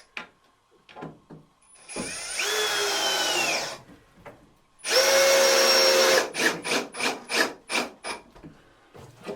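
Power drill driving screws into wood: two trigger runs, the first speeding up then slowing, the second louder and steady, then a string of short quick bursts.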